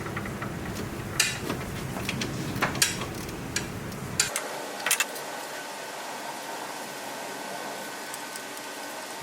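Metal tools clinking and tapping, half a dozen sharp knocks in the first five seconds, over a steady low hum that stops abruptly about four seconds in.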